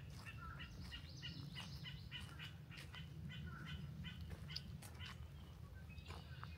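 A songbird calling a run of short, evenly repeated chirps, about three a second, stopping about four seconds in, with a few scattered higher calls after. Walking footsteps and a steady low rumble lie under it.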